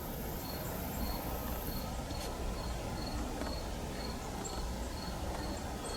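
Crickets chirping in an even rhythm of about two short high chirps a second, over a steady low outdoor rumble.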